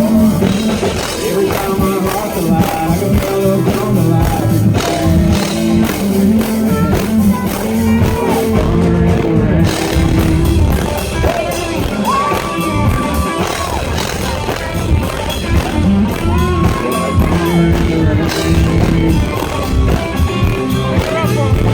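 A live country-rock band playing loudly with drums and sustained, sliding melodic lines, an instrumental stretch with little or no lead vocal. Crowd noise is mixed in.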